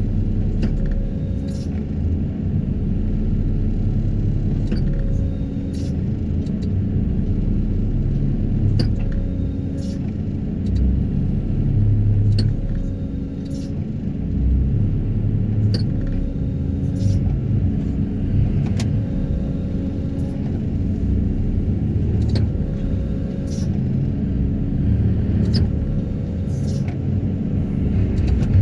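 Excavator diesel engine and hydraulics running, with higher tones that come and go and scattered short clicks and knocks.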